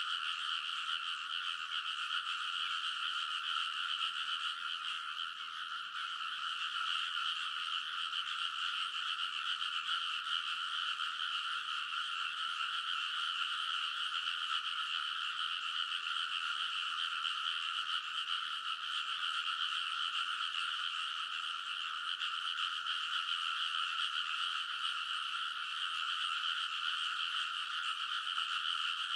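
A dense chorus of many frogs calling together from a rice paddy, an unbroken, steady wall of overlapping croaks in two pitch bands, one lower and one higher.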